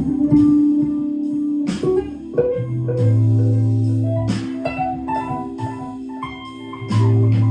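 Electric guitar on a clean tone improvising a melodic line in A minor, single plucked notes over held low accompanying notes.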